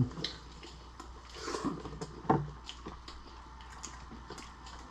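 Eating sounds: chewing with scattered small clicks and ticks of shellfish and utensils, and a brief low murmur a little after two seconds.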